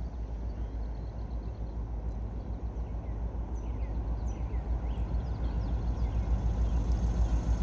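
Low rumble of an approaching freight train, growing gradually louder, with a few faint bird chirps.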